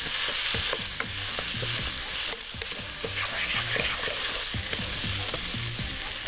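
Freshly added chopped tomatoes sizzling in hot oil in a pot of toasted vermicelli, stirred with a wooden spoon that scrapes and clicks against the pot. The hiss is steady and eases slightly after about two seconds.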